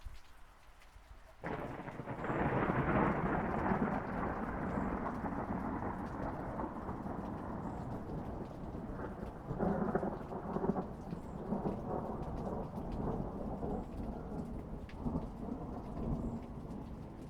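A thunderclap breaks in suddenly about a second and a half in over steady rain. It rolls on as a long, low rumble that swells again several times and eases off near the end.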